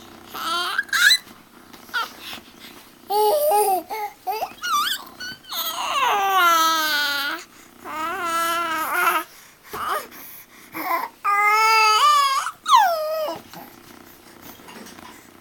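A baby babbling in a run of high-pitched, drawn-out vocal sounds that glide up and down, some with a wavering pitch; the babbling stops a couple of seconds before the end.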